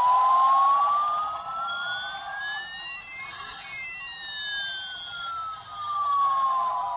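A siren-like electronic tone that sweeps slowly up for about three seconds and then back down, one long rise and fall.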